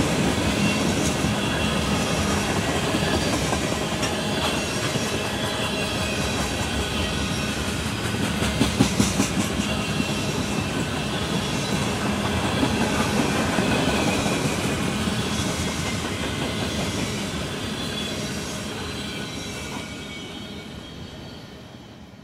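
Freight train cars rolling past close by: steel wheels clicking over rail joints, with a faint squeal and a quick run of louder clacks about nine seconds in. Near the end the sound fades as the end of the train moves away.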